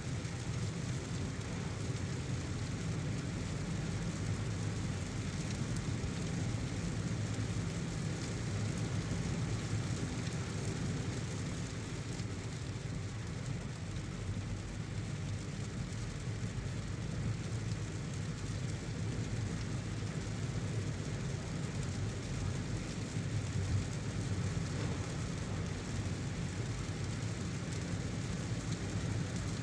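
A car driving in heavy rain: a steady low rumble of engine and tyres under an even hiss of rain.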